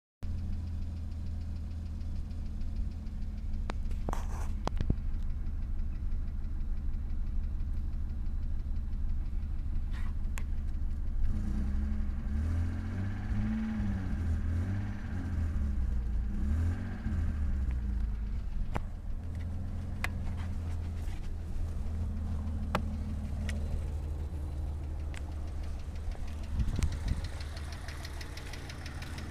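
Mitsubishi 6G73 2.5-litre V6 running with a knock that remains after a bottom-end rebuild. It idles steadily and is revved up and down several times in the middle.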